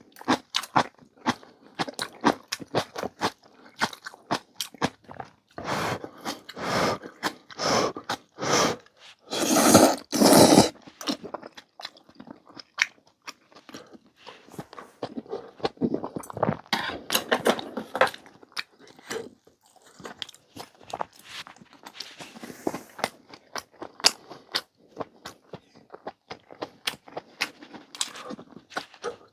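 Close-up mouth sounds of someone eating noodle soup: wet chewing and smacking clicks throughout, with louder slurps in the middle, the loudest about ten seconds in.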